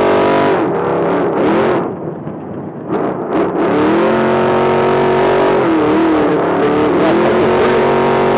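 Trophy truck engine running at high revs under throttle. About a second in the revs fall away and the sound drops for a moment as the throttle is lifted, then climbs back to a steady high pitch about four seconds in. There is one more brief dip and recovery around six seconds.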